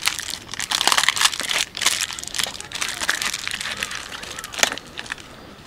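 Wrapping being crumpled and handled: dense irregular crinkling and crunching, with a sharp crackle near the end before it dies down.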